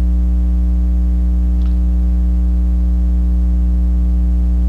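Loud, steady electrical hum: a buzzing stack of constant tones, strongest at the bottom, with no other sound over it.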